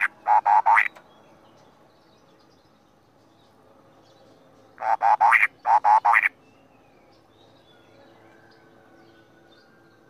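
Caged cucak kopi bird calling in loud runs of quick repeated notes. One run ends about a second in, and two more runs of about four notes each come around five and six seconds in.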